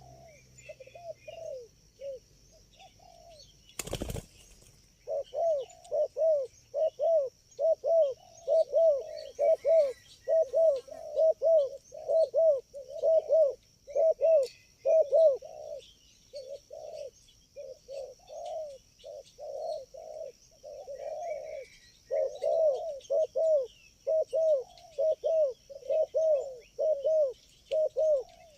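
Spotted doves cooing in a rapid, continuous run of short arched notes, about two a second, starting about five seconds in. A single sharp knock sounds just before the cooing starts.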